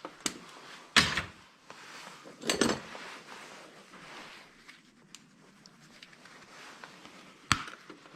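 Pieces of scrap metal clanking and clattering as they are tossed and sorted into piles or bins. There are three loud clanks, about a second in, around two and a half seconds and near the end, with smaller clicks between.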